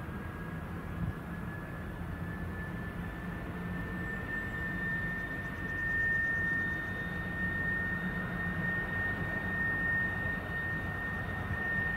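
A train, with a steady high whine held throughout over a low rumble. The whine rises slightly in pitch at the start.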